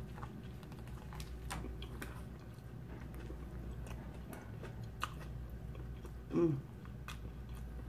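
A person chewing a mouthful of stromboli, with soft wet smacking and clicking mouth sounds. About six seconds in, a short voiced 'ooh' with the lips pursed is the loudest sound.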